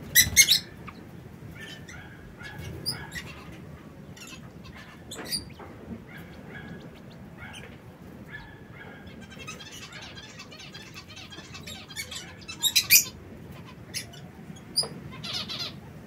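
Aviary birds calling with short, shrill chirps and squawks: a loud quick burst right at the start and another about 13 seconds in, with softer scattered chirps between.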